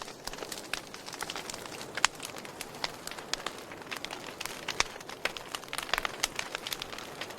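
Campfire burning: a steady hiss with irregular sharp crackles and pops from the wood, one louder pop about two seconds in.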